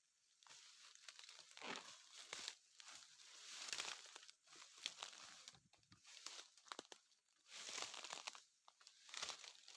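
Faint, irregular rustling and crackling of dry leaves and undergrowth, in short uneven spells.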